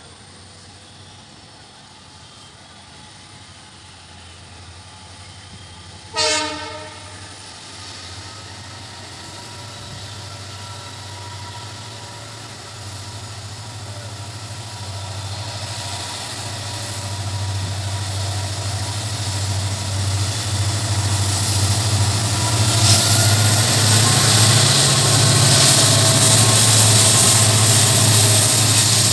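Diesel locomotive hauling an express passenger train as it approaches and passes close by. It gives one short horn blast about six seconds in. Then the engine's low rumble and the noise of wheels on rails grow steadily louder and are loudest near the end.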